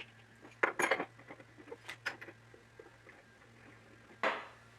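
Wooden parts of a workbench tail vise knocking and clicking as they are handled and fitted back together: a quick cluster of knocks about a second in, a few light ticks, and one louder knock near the end, over a faint steady hum.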